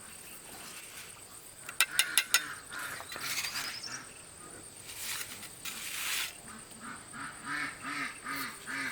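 Ducks quacking in a quick run of short calls, about three a second, through the last few seconds. A few sharp knocks come about two seconds in.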